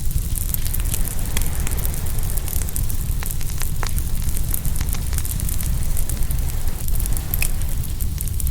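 Open wood fire crackling and popping, with frequent irregular sharp snaps over a steady low rumble.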